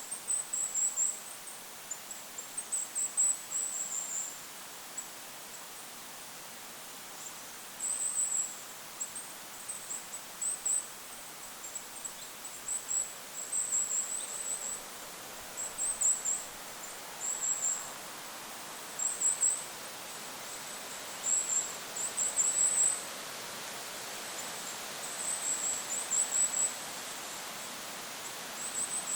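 Goldcrest giving very high, thin calls in short clusters of rapid notes, repeated every second or two with a few pauses, over a steady hiss of wind.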